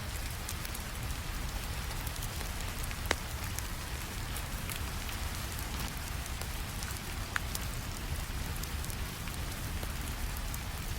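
Steady rainfall mixed with a crackling wood fire: an even hiss of rain over a low rumble, with scattered small crackles and two louder pops, about three and seven seconds in.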